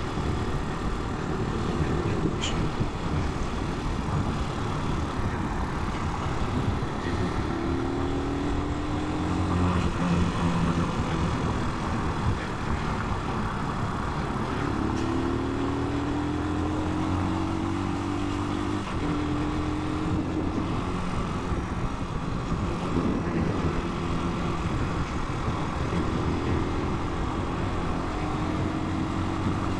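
Italika 250 motorcycle engine running while riding, with a steady rush of wind and road noise. Its pitch rises several times as it pulls up through the gears.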